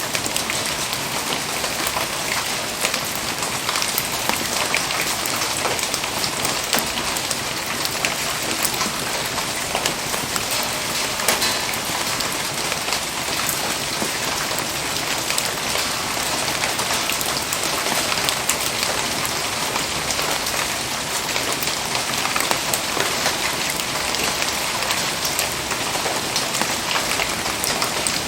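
Steady rain falling: a dense, even hiss of rain on surfaces, with many small drop ticks.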